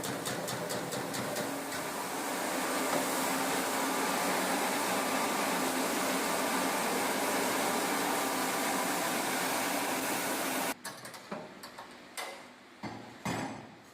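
Ekodil 250 guillotine-style slicing machine running, its blade beating in rapid even strokes at first, about four or five a second, then blending into a steady mechanical running noise. It stops suddenly about 11 seconds in, followed by a few separate knocks and clicks.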